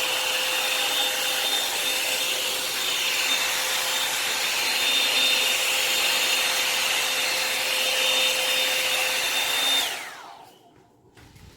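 Revlon hot-air dryer brush running steadily with a rushing blow and a steady high whine. About ten seconds in it is switched off, and the whine falls away as the motor spins down.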